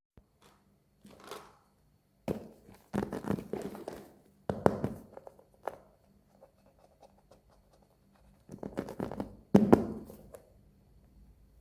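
Hands handling a toy and its plastic packaging: scattered taps, thunks and crinkly rustling in several short bursts with quiet gaps between them.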